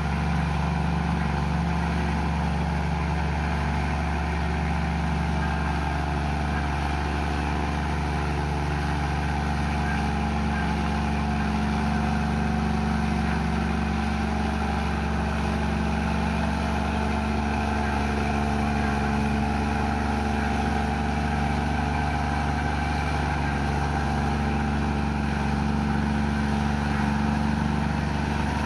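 Komatsu bulldozer's diesel engine running steadily under load, with a low drone that shifts slightly in pitch now and then.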